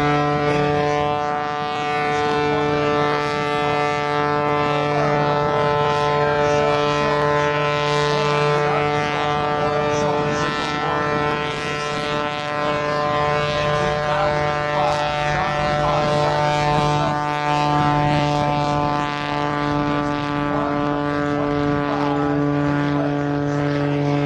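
Engine and propeller of the Oracle Challenger III aerobatic biplane running at steady power, a continuous droning hum whose pitch barely changes.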